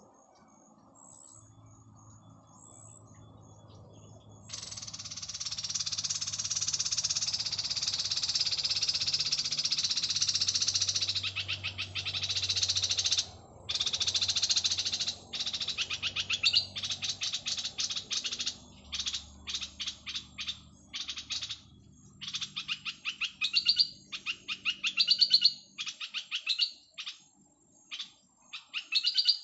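Petpet bird song: fast, buzzy chattering that starts about four seconds in and is continuous at first, then breaks into rapid runs of repeated high notes in short phrases. A faint low hum lies under the first part.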